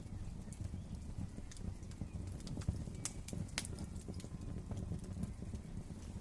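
Wood fire burning in a fireplace: a steady low rumble of flames with scattered sharp crackles and pops, the sharpest about three and a half seconds in.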